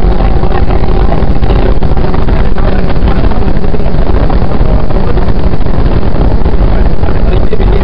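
Running noise of a JR 115 series electric train at speed, heard from inside the carriage: a loud, steady rumble of wheels on rail with a faint steady hum.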